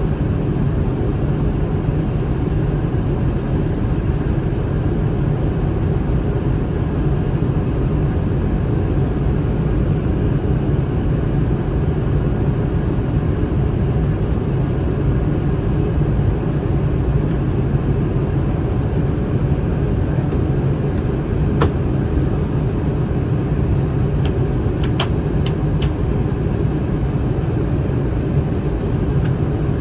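Steady cabin noise of an Airbus A319 in flight: the low rumble of its CFM56 engines and the airflow past the fuselage. A few faint clicks come about two-thirds of the way in.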